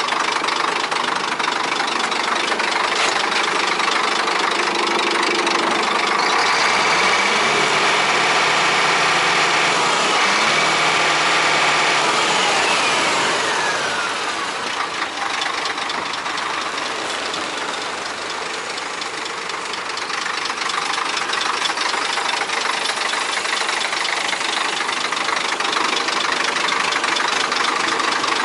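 Scania 124 420 truck's 12-litre six-cylinder diesel running at idle, revved up about six seconds in and held higher for several seconds, then falling back to a steady idle.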